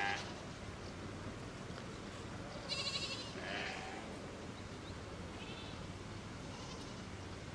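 Farm animals bleating: a call at the start, a louder pair of bleats about three seconds in, and fainter ones later, over a steady low hum.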